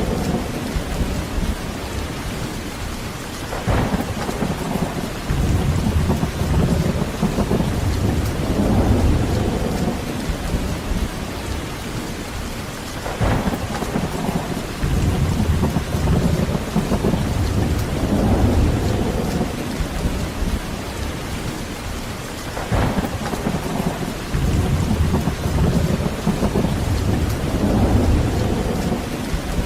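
Heavy rain falling steadily, with rolling thunder rumbling in low swells about every ten seconds. Three of the rumbles open with a sharper crack.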